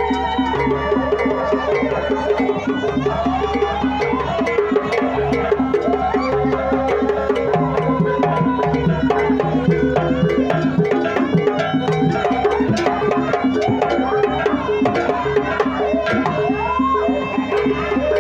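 Jaranan pegon accompaniment music: a Javanese traditional ensemble playing, with drums and percussion strokes keeping a steady beat under a wavering melodic line.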